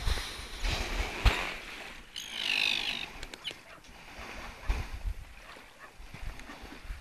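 A single bird call, less than a second long, about two seconds in, with a wavering, bending pitch. Around it are water sounds from the kayak paddling and low rumbles on the microphone.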